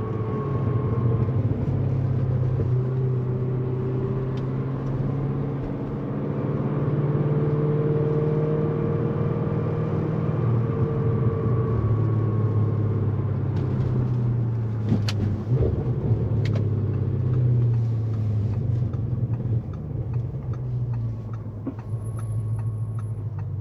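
Tuned Audi S6's engine and exhaust droning steadily at a light cruise, its pitch drifting gently up and down with no hard revving.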